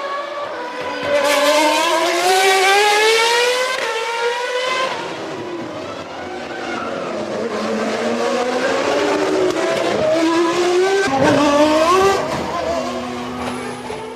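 Formula One cars' V10 engines at high revs on the Monaco street circuit. The engine pitch climbs through the gears, drops sharply at each upshift or as a car goes past, and several engine notes overlap.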